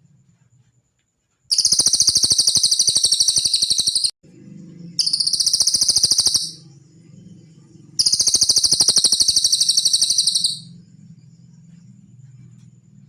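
Cililin song from a songbird-training recording: a fast, high, rattling trill in three bursts, each lasting about two to three seconds, with short gaps between.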